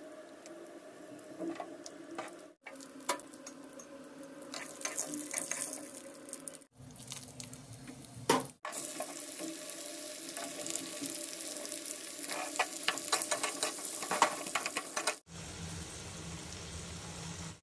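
Hot oil sizzling and crackling in an aluminium kadhai as whole spices, garlic, dried red chillies and sliced onions fry. The sizzle cuts off abruptly and restarts several times.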